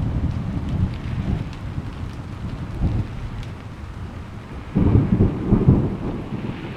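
Thunderstorm: steady rain with rolling thunder, a louder crackling thunder rumble breaking in about five seconds in.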